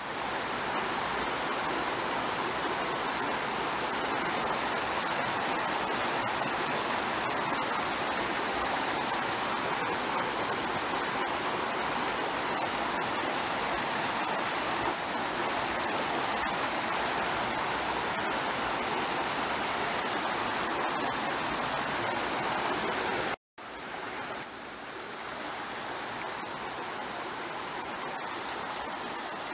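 Steady rush of running water from a mountain stream. It breaks off about 23 seconds in and comes back a little quieter.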